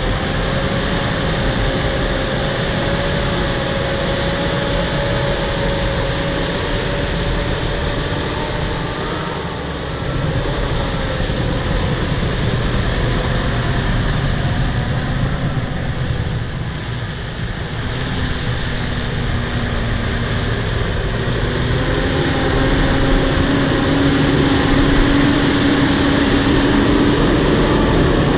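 Bulldozer's diesel engine running steadily with a whine over it. The level sags briefly twice and then rises and stays louder for the last third.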